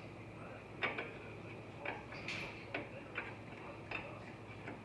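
Irregular light metallic clicks and clinks from hand tools on the truck's front hub bolts, about one every half second to a second, some in quick pairs.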